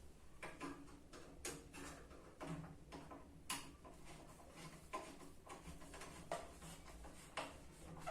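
A dozen or so light, irregular clicks and knocks, as of small metal parts and tools being handled and set down during a drill chuck restoration, some with a short dull ring.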